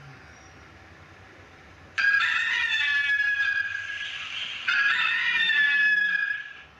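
A rooster crowing cock-a-doodle-doo twice, two long calls back to back starting about two seconds in.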